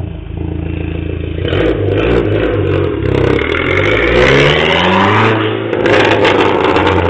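Dodge SRT-4's turbocharged 2.4-litre four-cylinder running just after starting, idling steadily, then revved several times from about a second and a half in, the pitch rising and falling with each blip.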